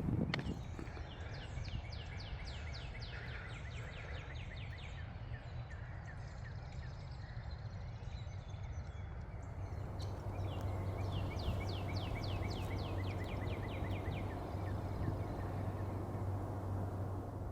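A songbird singing two long series of rapid, evenly repeated high notes, each series lasting about four to five seconds, with a pause of about five seconds between them. A low steady hum runs underneath and grows stronger about halfway through.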